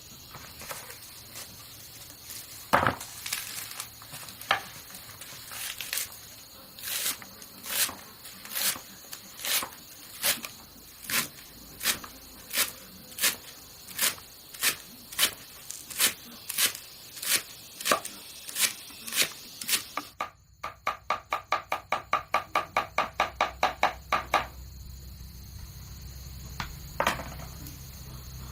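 Steady rhythmic chopping, a stroke about every two-thirds of a second, then an abrupt change to a faster run of lighter strokes, about four a second. Insects buzz steadily behind.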